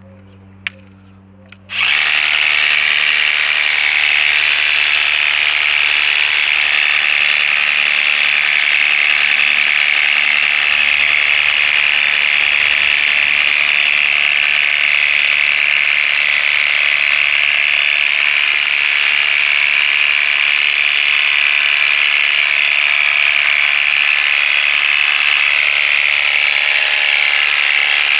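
Worx WG633 Hydroshot cordless pressure washer running and spraying, starting suddenly about two seconds in after a single click, then holding a loud, steady spray and motor sound.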